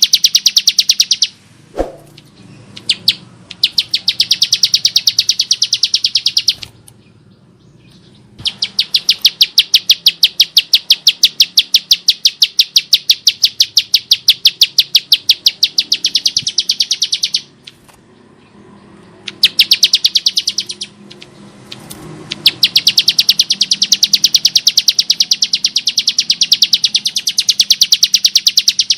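Bar-winged prinia giving long, rapid trains of harsh, rattling notes, about eight to nine a second, in runs of several seconds broken by short pauses.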